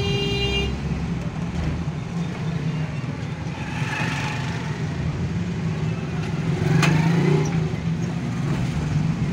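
Suzuki Mehran's small three-cylinder engine running, heard from inside the cabin as a steady low drone amid street traffic. A short, steady horn-like toot sounds at the very start, and the traffic noise swells louder about seven seconds in.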